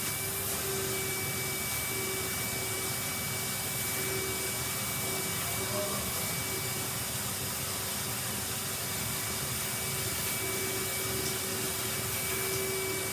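Vacuum cleaner running steadily, a constant motor whine over rushing air, sucking up dust.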